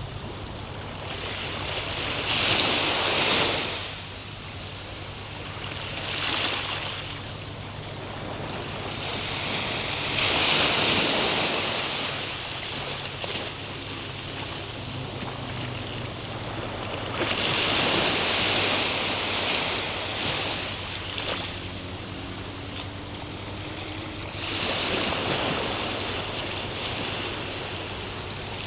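Ocean waves breaking and washing up on the shore, the rush swelling and falling away in repeated surges several seconds apart.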